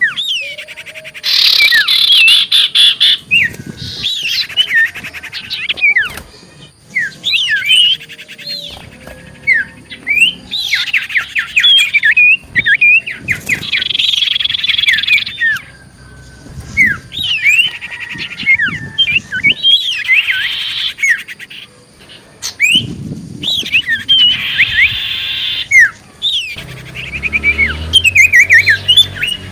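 Common iora singing in rapid bouts of chirps and quick sweeping whistles, each bout a second or two long with short pauses between. There is a low rumble near the end.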